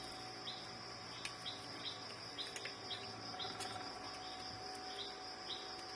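Background insect chirping: a steady high-pitched drone with short chirps repeating about twice a second, and a few faint clicks.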